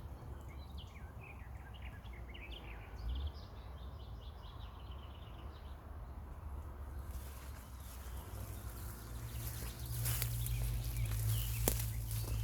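A small songbird singing a run of high chirps that ends in a rapid trill, over roughly the first half. Later a low rumble rises and two sharp clicks come near the end.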